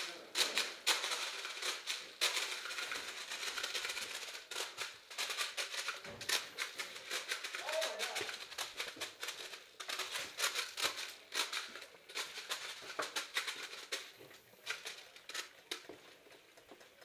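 Airsoft gunfire: rapid, irregular clicking pops of shots, thinning out and fading toward the end.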